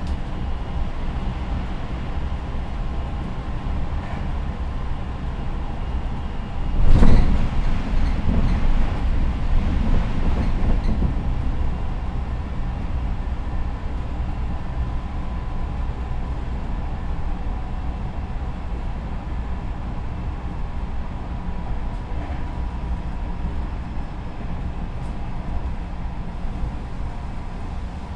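Tokyo Metro 10000 series electric train running at speed, heard from inside the car: a steady rumble of wheels on track with a faint steady tone. About a quarter of the way in, a loud rush of noise swells suddenly and fades away over a few seconds.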